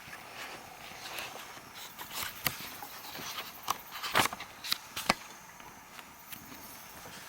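Irregular footsteps with a few sharp clicks, the loudest about four and five seconds in.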